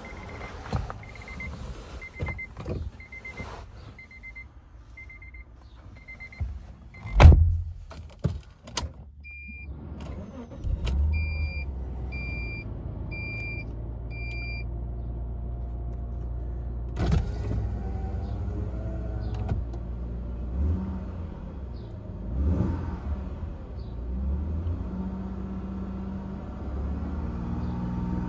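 A second-generation Honda Legend's 3.2-litre V6. A warning chime beeps about twice a second, then a heavy thump comes about seven seconds in. The engine starts about ten seconds in and idles near 1,000 rpm while a higher chime beeps five times, and near the end it is revved to about 2,800 rpm.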